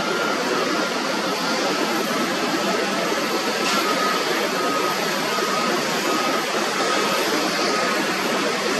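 Jet airliner engines making a steady, loud noise, with a faint high whine.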